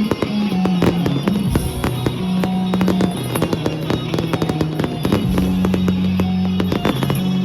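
Fireworks going off in many sharp bangs and crackles, over loud music with held bass notes and guitar.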